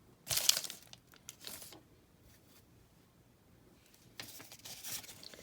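Brief bursts of crinkling and rustling as baseball cards and their pack wrapper are handled: two short bursts early, a quiet spell, then a longer stretch near the end.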